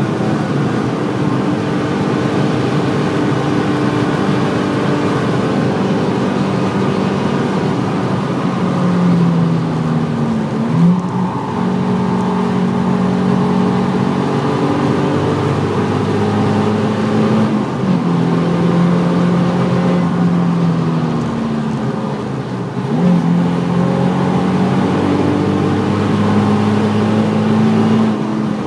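Nissan 350Z's 3.5-litre V6 heard from inside the cabin under hard driving, its note climbing and falling with speed over steady road and wind noise. The pitch breaks sharply three times as gears are changed.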